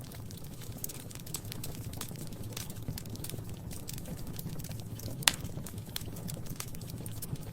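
Wood fire crackling in a fireplace: frequent small sharp pops over a low steady rumble of the flames, with one loud pop about five seconds in.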